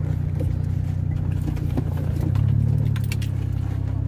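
Motor vehicle engine running steadily, picking up slightly in pitch and level about two seconds in as it accelerates.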